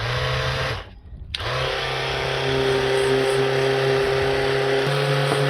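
Battery-powered Ryobi sander starting up, stopping briefly just before a second in, then starting again and running steadily while sanding the dented bodywork to take off rust and key it for filler.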